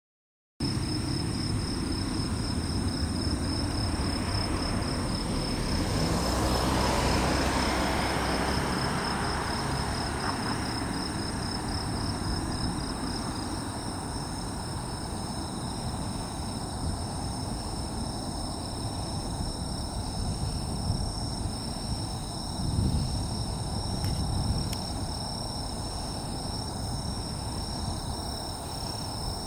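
Steady, high pulsing chirr of insects, with a broad rumble of distant jet engine noise swelling about six seconds in and easing off again, as an aircraft approaches the airfield.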